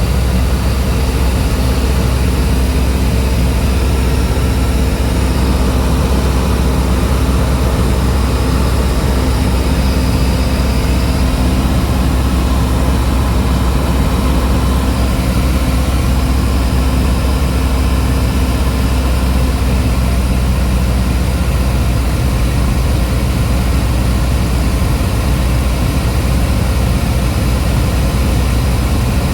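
Cessna 172's piston engine and propeller running at a steady drone in flight, with a steady tone in the sound that fades away about two-thirds of the way through.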